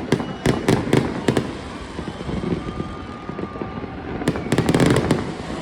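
Fireworks going off: a few sharp bangs in the first second and a half, then a quick run of crackling bangs about four and a half seconds in.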